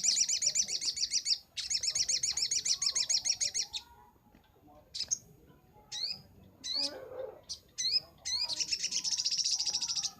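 Little spiderhunter (sogok ontong) singing in fast rapid-fire trills of repeated high notes, in three long bursts, with single sharp chirps between them.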